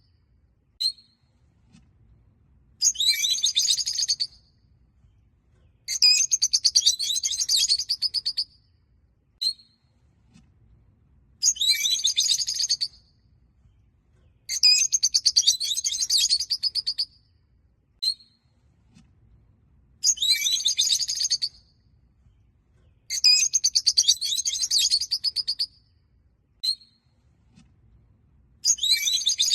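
Rosy-faced lovebirds chattering in bursts of rapid, high-pitched chirps, each burst lasting a second or two and coming every few seconds. Single short chirps fall in between.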